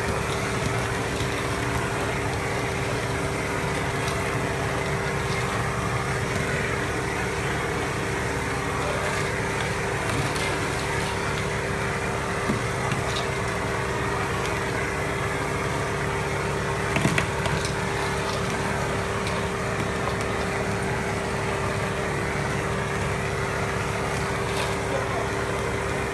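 A motor running steadily with a constant hum, with occasional light knocks and a brief clatter about 17 seconds in.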